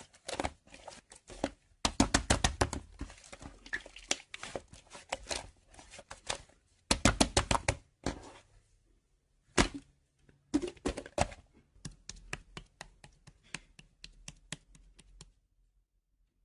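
Rapid series of sharp clicks and taps in bursts, with short pauses between them, stopping about a second before the end.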